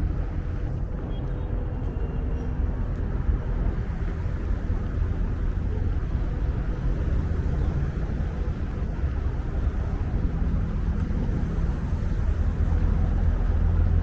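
Strong wind buffeting the microphone: a heavy, continuous low rumble that grows a little louder near the end, with street traffic mixed in beneath it.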